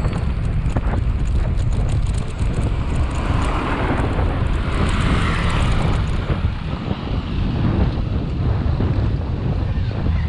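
Wind buffeting the microphone of a camera riding along on a moving bicycle, a steady low rumble. A swell of road noise rises and fades between about three and six seconds in.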